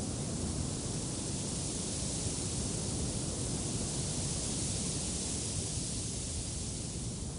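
Wind blowing, a steady rushing noise with a low rumble and a high hiss that swells a little midway.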